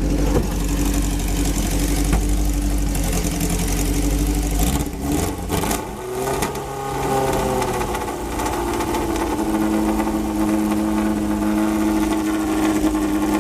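Fiat Abarth 1000 TCR's four-cylinder engine running at idle. About five seconds in it is revved, its pitch rising over a few seconds, and it then settles into a steady, slightly faster idle.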